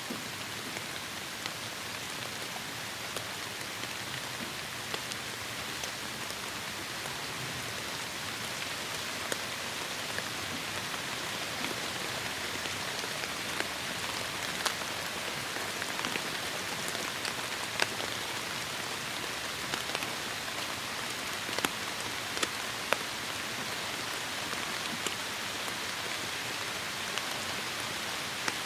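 Steady heavy rain, an even hiss with scattered sharp individual drops striking close by, growing slightly louder and denser partway through.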